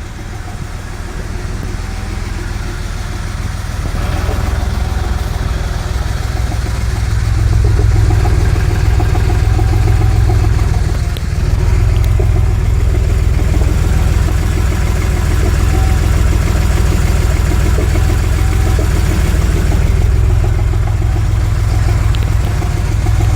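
Car engine running steadily, getting louder over the first eight seconds and then holding, with a brief dip about eleven seconds in.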